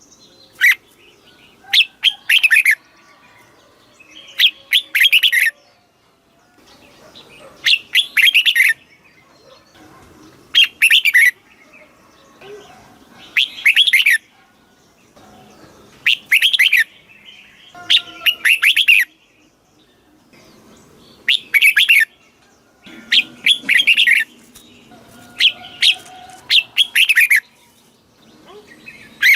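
Red-whiskered bulbul singing: short, loud, warbling phrases repeated every two to three seconds, with fainter chattering between them.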